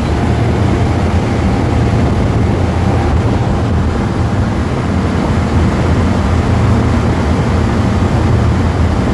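Refrigeration condensing unit running: its compressor and condenser fan make a steady, loud low hum with a rushing noise over it.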